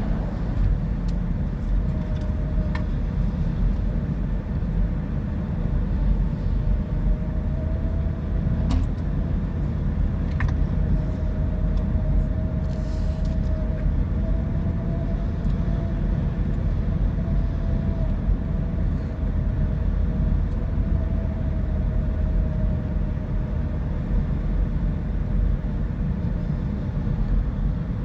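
Steady engine and road rumble of a vehicle driving in traffic, with a faint whine that drifts slightly in pitch and a couple of sharp clicks about nine and ten seconds in.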